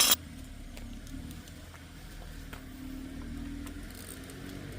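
A sharp metallic clank at the start, then a low steady hum with scattered faint clicks of hand tools working on the van's front end.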